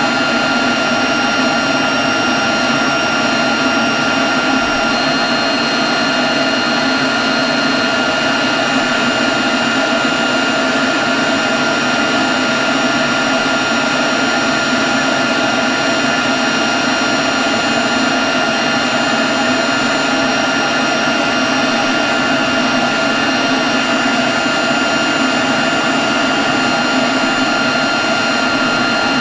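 Leaf blower running steadily at constant speed: a rush of air with a steady high whine over it.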